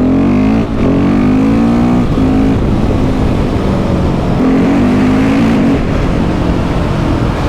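KTM 690 SMC R's single-cylinder engine through a Leo Vince exhaust, accelerating hard with the revs rising. A quick gear change comes under a second in, and then it pulls on at high revs.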